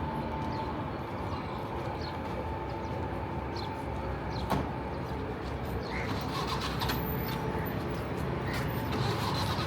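Busy street ambience with vehicle engines running close by, a low engine rumble building near the end as a vehicle approaches. A single sharp click or knock about halfway through.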